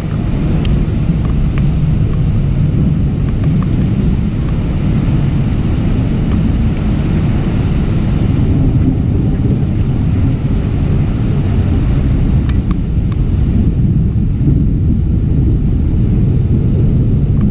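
Rain falling steadily, mixed with wind buffeting the microphone, which gives a continuous low rumble with a few faint drop ticks.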